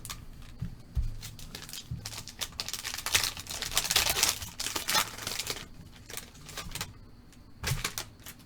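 Crinkling and tearing of trading-card packaging as a box and a foil pack of cards are ripped open, with a few light knocks of the box at the start; the crackling is densest in the middle.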